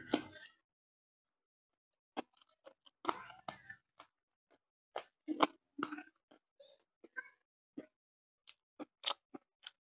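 Close-miked mouth sounds of a man eating by hand: chewing with wet smacks and clicks that come in irregular clusters, with short quiet gaps between.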